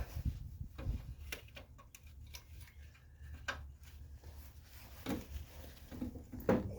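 Scattered light clicks and knocks of hand tools and metal parts being handled, irregularly spaced, with a sharper knock near the end.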